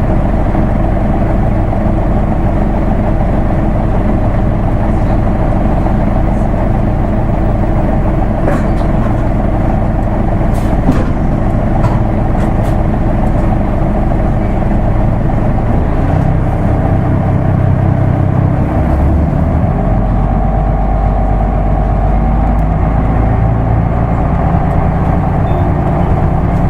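Isuzu Erga Mio non-step bus with a manual gearbox, its diesel engine running steadily under way. From about sixteen to twenty seconds in, the engine note changes and its pitch shifts as the bus changes speed.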